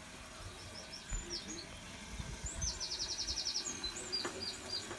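Small birds chirping in short, high calls, with a quick trill of about ten notes around the middle.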